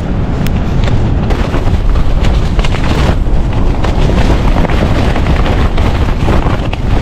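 Strong gusty wind blasting the microphone, a loud, rumbling buffeting with many short thuds of gusts.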